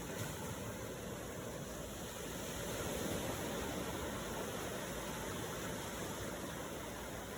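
Steady rush of sea waves washing in, swelling slightly a few seconds in.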